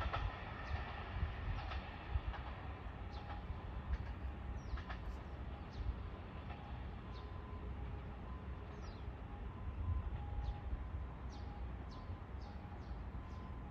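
Train running away into the distance after passing, its low rumble fading to a steady murmur, with birds chirping.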